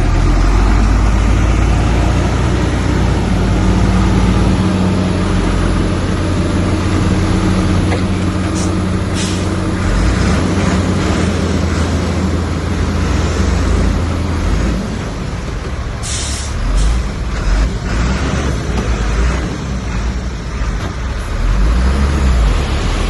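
Heavy diesel earthmoving machine working: a deep, steady engine drone for the first part that then rises and falls under changing load, with a few short hisses.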